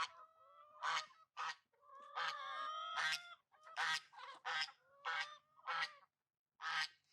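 Chickens squawking, a string of short calls about once or twice a second, with one longer drawn-out squawk around two seconds in.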